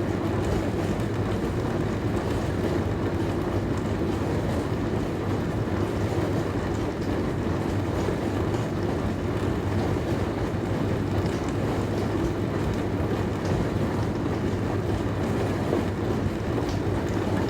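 Dishwasher running: a steady low hum of its motor with water spraying and sloshing inside the tub.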